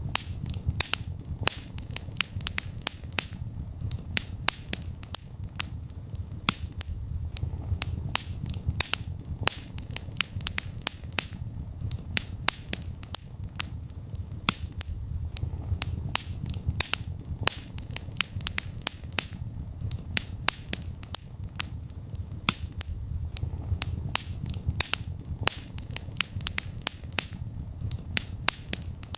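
Fire burning in a fireplace, crackling with many sharp pops, several a second, some much louder than others, over a steady low rumble.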